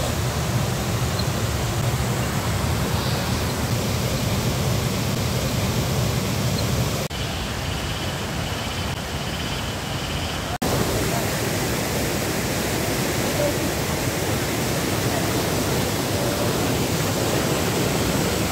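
Steady rush of fast-flowing stream water spilling over rocks, with two abrupt breaks where the sound changes suddenly, about seven and ten seconds in.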